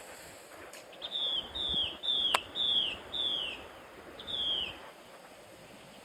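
A small bird calling a series of six short whistled notes, each sliding down in pitch, about one and a half a second, with one sharp click about halfway through.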